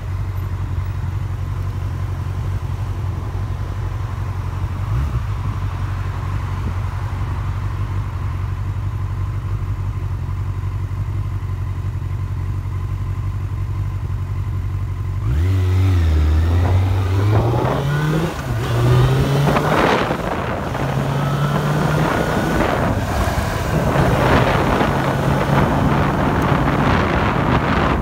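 Car engine idling steadily, then about halfway through it revs up as the car pulls away, its pitch climbing and dropping back in steps through the gear changes, with road and wind noise rising as it gathers speed.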